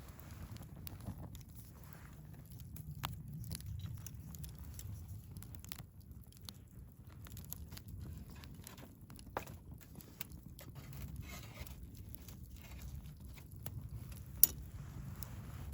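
Wood fire crackling in a Picogrill 398 fire pit: scattered small pops and snaps over a low rumble, with one much louder sharp pop near the end.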